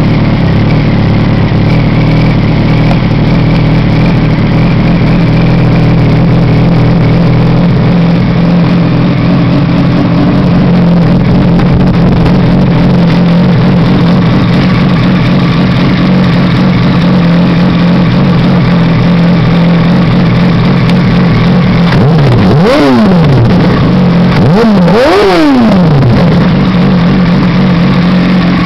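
Yamaha YZF-R1 inline-four motorcycle engine running loudly at idle through an aftermarket WR dual exhaust tip, then blipped three times in quick succession near the end, the pitch rising and falling with each rev before it drops back to idle.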